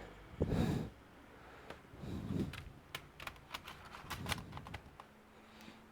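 A run of light, irregular plastic clicks and taps, about a dozen over a few seconds, after a soft thump about half a second in.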